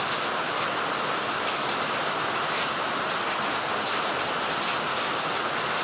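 Steady, even rush of water noise, with no let-up, consistent with a river in flood or heavy rain.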